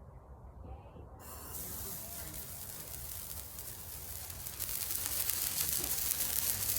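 A small ground firework catches about a second in and starts spewing with a steady hiss, which grows louder and more crackly a few seconds later as it pours out a lot of smoke.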